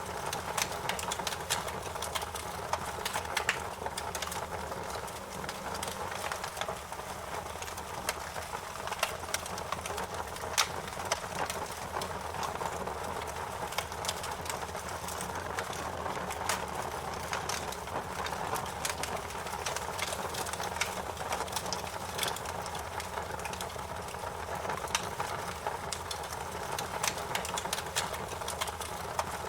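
Wood fire crackling: irregular sharp pops and snaps over a steady rush of burning.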